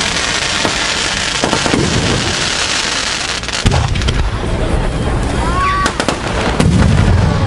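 Aerial fireworks bursting overhead: a dense crackling of bursting stars, then low booming shell bursts with a sharp bang about three and a half seconds in.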